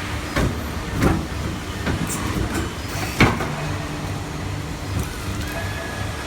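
250-ton hydraulic metal baler running: a steady low hum from its hydraulic power unit, broken by several metal clanks and knocks, the loudest about three seconds in. A faint steady whine joins the hum near the end.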